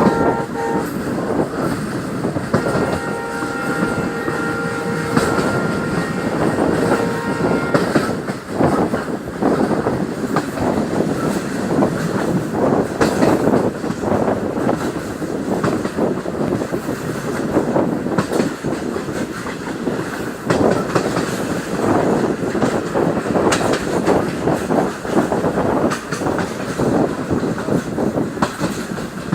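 Train running along the track with a steady rumble and the clatter of wheels over rail joints. A horn of several steady tones sounds briefly at the start and again for about five seconds a few seconds in.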